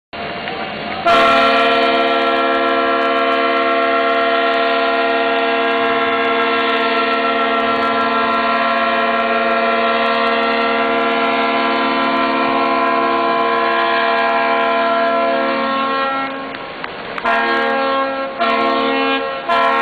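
Ship's horn sounding one long, steady blast of about fifteen seconds, then a few short blasts near the end.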